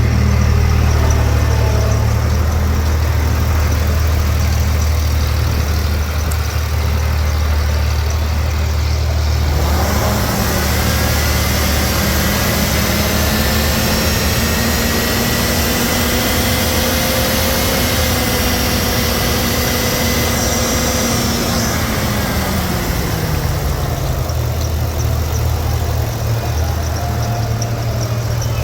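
Used 2011 GM/Chevrolet HD 6.0L gasoline V8 engine running. It idles steadily, is brought up to a higher held speed about a third of the way in, then settles back down to idle near the end.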